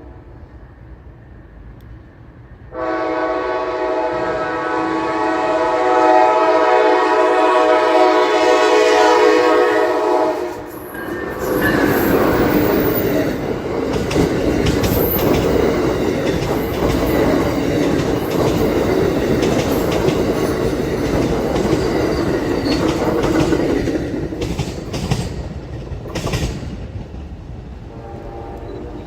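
Train horn blowing one long, loud chord for about eight seconds, then the train passing close by, its wheels rumbling and clicking over the rails. The passing noise eases off near the end, as a horn sounds again faintly.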